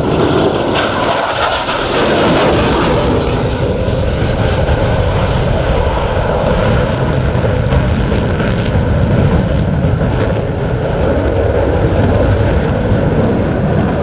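Jet noise from Boeing F/A-18 Super Hornet fighters: a loud, steady roar, with a harsher high hiss for a couple of seconds near the start.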